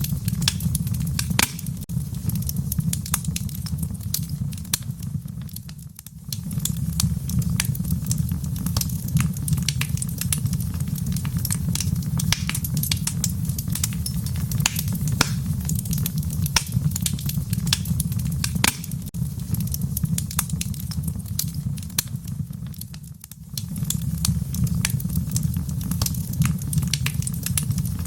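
Fireplace fire crackling: frequent sharp pops and snaps over a steady low rumble. The sound dips briefly about six seconds in and again near the end.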